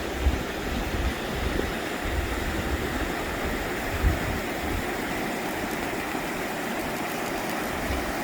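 Mountain river rushing steadily over rocks, with low gusts of wind on the microphone through roughly the first half.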